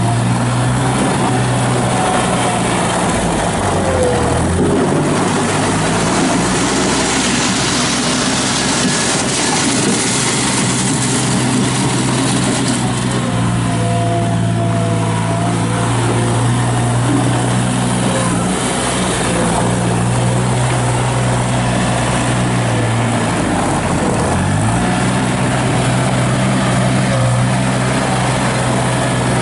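Gehl 4835 skid steer loader running steadily at working revs while it is operated, its engine note dipping briefly twice, about four seconds in and again around two-thirds of the way through.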